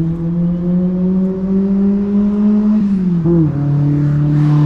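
A motor vehicle's engine running close by, its hum rising slowly in pitch, then dropping about three seconds in and holding steady.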